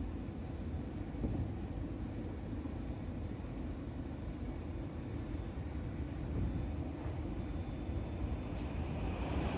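Class 350 Desiro electric multiple unit running slowly into the station: a steady low rumble that grows a little louder towards the end.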